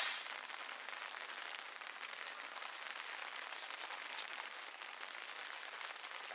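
Rain drops pattering steadily and densely on the plastic sheet wrapped over the camera, a fast stream of small ticks.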